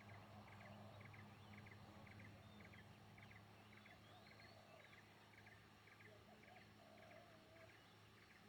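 Near silence with a faint animal call: short doubled chirps repeating steadily about twice a second.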